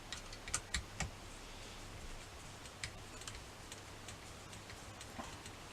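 Light clicks and taps of a small screwdriver and plastic parts being handled while fitting a switch into an RC car chassis: a quick cluster in the first second, then single clicks near the three-second mark and near the end. A faint steady low hum lies beneath.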